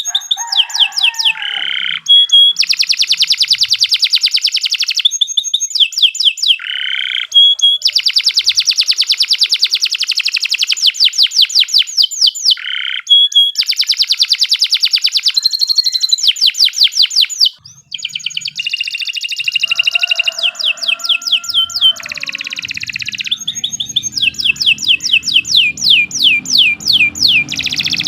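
Domestic canary singing a long, loud song of fast trills: phrases of rapidly repeated high notes, each run lasting a few seconds, with brief pauses between them. A faint low hum sits underneath in the last few seconds.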